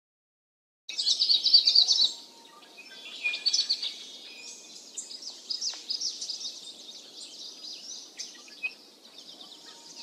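Birds chirping and calling. About a second in comes a loud, fast run of repeated chirps, then quieter scattered chirps.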